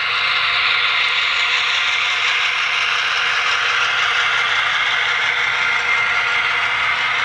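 HO-scale Bowser MLW M630 model diesel locomotive running along layout track: a steady mechanical whir and clatter from its motor and wheels.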